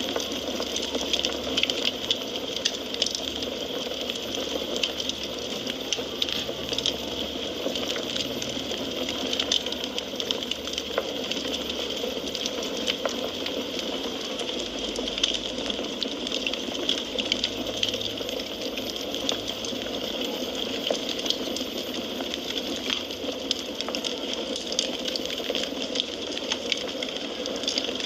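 Wood fire crackling, with frequent small irregular pops and snaps over a continuous hiss.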